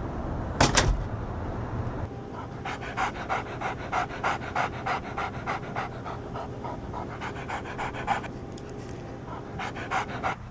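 A person imitating a dog panting: quick, even breaths, about three a second, with a short pause before one last run near the end. A single sharp knock or thump comes just under a second in.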